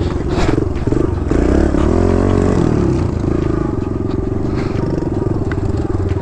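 Kawasaki KLX110 dirt bike's small single-cylinder four-stroke engine running while riding, revving up and back down about a second and a half in, then running steadily.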